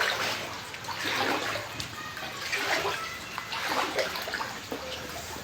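Rainwater flooding into a house, splashing and sloshing in irregular surges.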